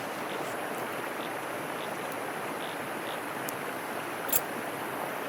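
A stream flowing steadily, with a single short click about four seconds in.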